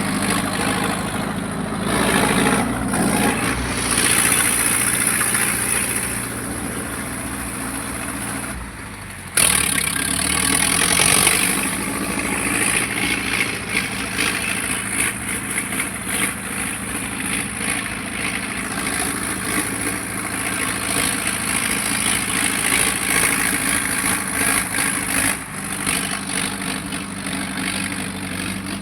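Tractor engine running steadily, with a sudden break about nine seconds in where the sound cuts and picks up again.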